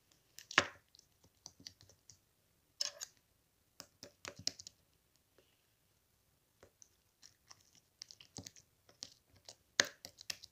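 Slime being handled by hand, giving irregular small clicks and crackles, with a brief lull midway.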